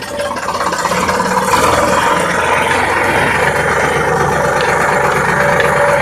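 Sonalika DI 740 tractor's diesel engine running, growing louder over the first second or so, then steady.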